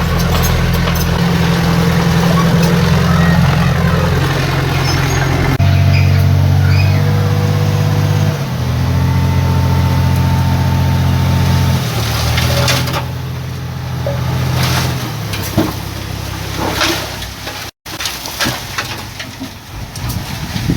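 Heavy diesel engine of earthmoving equipment running, its note stepping up and down several times as the throttle and load change. In the last few seconds the engine drone fades and scattered clanks and knocks come through.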